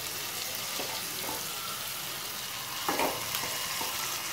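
Chicken pieces sizzling in oil and spice masala in a nonstick kadai, with a spatula scraping through the pan a few times, most plainly about three seconds in. The masala is fried down to where the oil separates from it.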